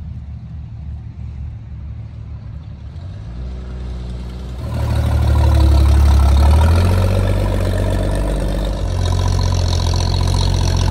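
1964 Dodge Dart station wagon driving up and passing close by, its engine running, loudest about five to six seconds in, then carrying on as it drives off across the lot.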